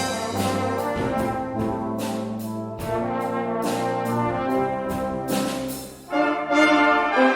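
A brass band playing a slow, sustained chordal passage, with repeated note attacks. It dips briefly near the end, then comes back in louder.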